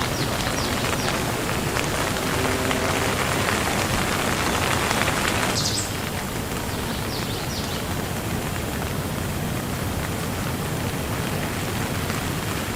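Steady rain falling, an even hiss of many drops. About six seconds in it drops suddenly to a softer, quieter rain.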